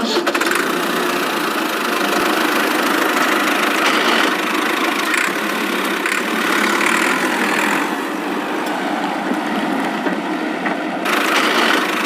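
A motor running steadily with a rough, buzzing mechanical noise, cutting off abruptly at the end.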